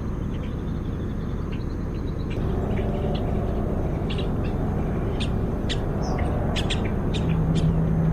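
Birds chirping in short, scattered calls over a steady low outdoor rumble, with a low steady hum coming in about seven seconds in.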